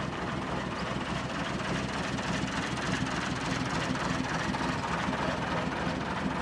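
Heavy bus engine running steadily at low revs.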